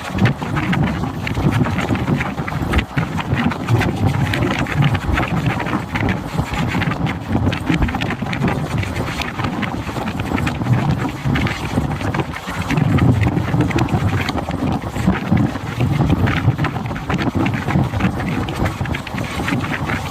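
Train in motion: a continuous rumble with many small rattles and clicks, and wind buffeting the microphone.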